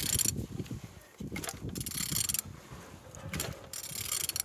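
Used car engine being turned over by hand, its internals clicking and rasping in several short strokes. It turns over freely, a sign it is not seized.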